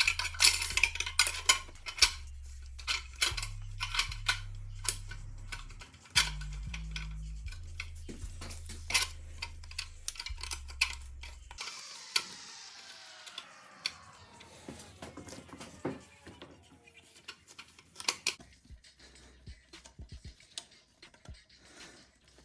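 Quick metallic clicks and clinks of automatic transmission parts being handled and fitted together, over background music with a stepping bass line that stops about halfway through. The clinking goes on more sparsely after that.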